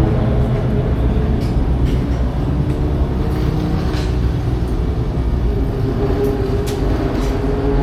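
Racing car engines running steadily and loudly, with no rise or fall of a pass-by.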